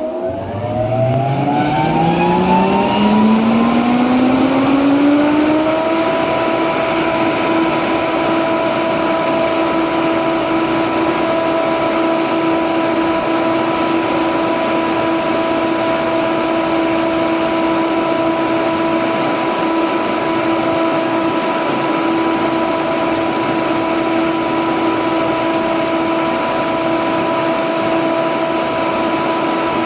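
FBCZ main mine ventilation fan starting up: a rising hum with whining overtones climbs in pitch for about six seconds as the fan comes up to speed, then holds a steady tone over a rush of moving air.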